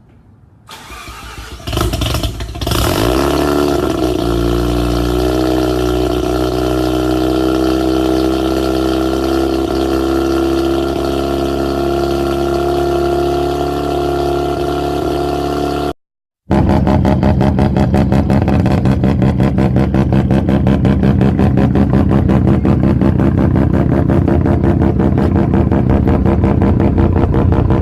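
Mazda RX-7 FD's twin-rotor 13B rotary engine starting about two seconds in and settling into a steady idle through the exhaust. After a brief cut about sixteen seconds in, another RX-7 idles louder with a rapid, even exhaust pulse.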